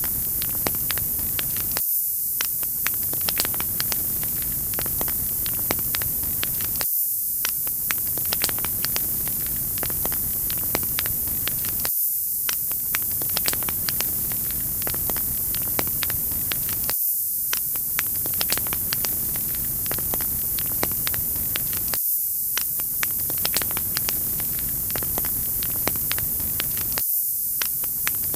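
Wood fire in a fireplace crackling: a steady hiss with frequent sharp pops and snaps, the same short stretch repeating about every five seconds.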